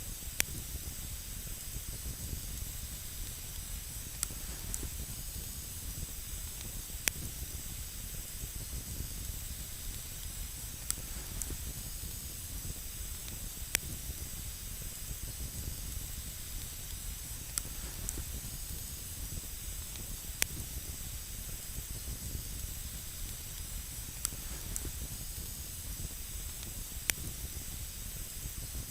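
Campfire burning with a steady hiss and low rumble, broken by single sharp crackles every three to four seconds.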